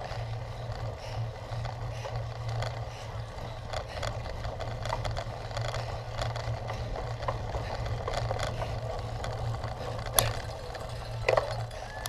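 Cyclocross bike being ridden over rough ground: steady running noise with scattered clicks and rattles, and a sharp knock about ten seconds in.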